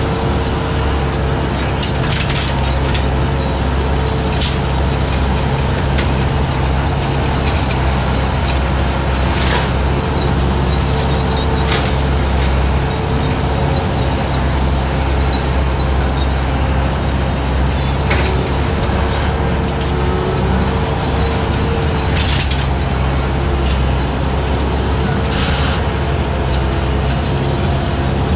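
Skid steer engine running steadily while driving a 72-inch brush cutter through grass and brush, with short sharp snaps every few seconds as the blade hits sticks and woody brush.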